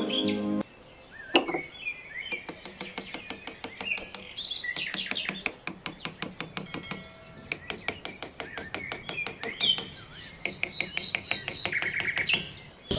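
Birds chirping, over a quick run of sharp clicks at about four to five a second that stops and starts again; one sharper knock comes about a second in. Background music cuts off under a second in.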